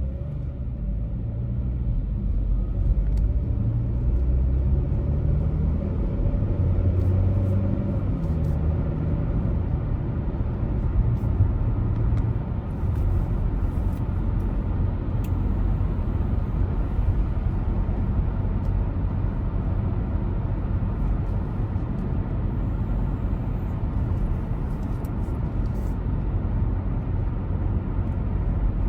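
A car driving: steady low engine and road rumble, with the engine's pitch shifting over the first several seconds.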